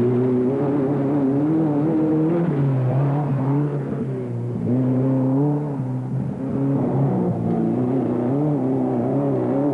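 Off-road race car engine running under load, its pitch rising and falling repeatedly as the throttle is worked.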